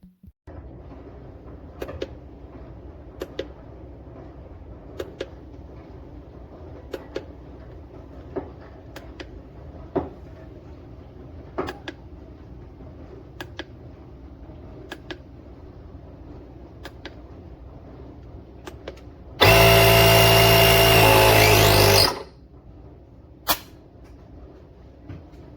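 A jump starter pack's built-in electric air compressor switches on near the end and runs loudly and steadily for about two and a half seconds, then cuts off. Before it, a low steady hum with a light click about every second and a half.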